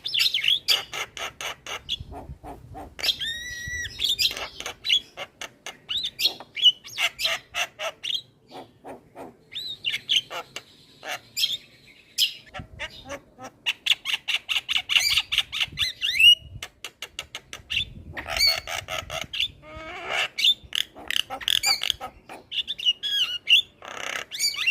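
Javan myna singing energetically: a long run of rapid chattering notes, squawks and whistles. There is a short whistled phrase a few seconds in, a drawn-out harsh buzz about ten seconds in, and fast stuttering note trains through the middle and later part.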